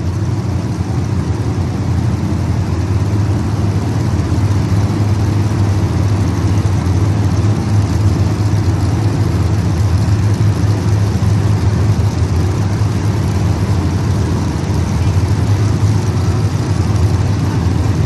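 Several small race-car engines running laps together, a steady, continuous loud drone with no single car passing out of it.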